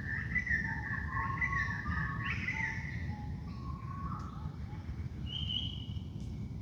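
Wild birds singing in a dawn chorus: a warbling song for the first couple of seconds, then several shorter calls, one higher note near the end, over a steady low rumble.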